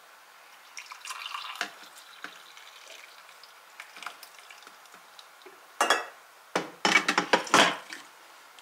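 Kitchenware being handled: light clinks and clatter about a second in, then several louder, rough noisy bursts near the end.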